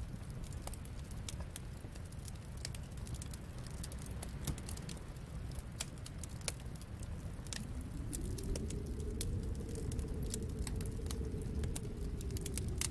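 Wood fire crackling in a fireplace: scattered sharp pops and snaps over a steady low rumble. About halfway through, a soft rushing sound swells up and fades again near the end.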